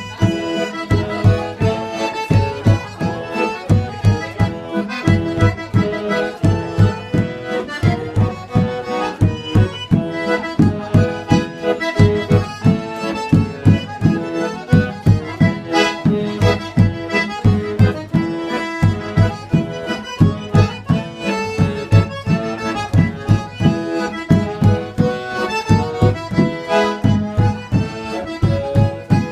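Traditional northeastern Brazilian festa junina music led by an accordion (sanfona), playing sustained chords and melody over a steady low beat.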